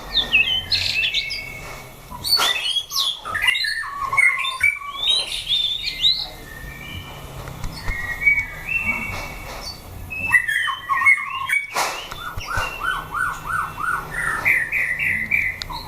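White-rumped shamas singing: varied whistled phrases mixed with fast runs of repeated notes, one run a little past halfway and another near the end. A single sharp click about twelve seconds in.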